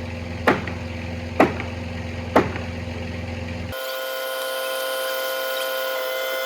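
Boom truck running with a steady low engine hum and a sharp click about once a second. A little past halfway this gives way abruptly to a steady higher-pitched whine.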